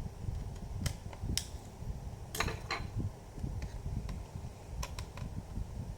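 Phillips screwdriver working a stuck laptop screw: a handful of sharp, scattered metal clicks over a steady low rumble of handling.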